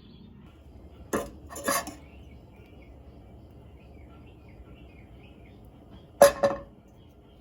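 Kitchenware clattering as butter goes into a frying pan: a utensil knocking against the pan twice about a second in, then a louder double knock near the end.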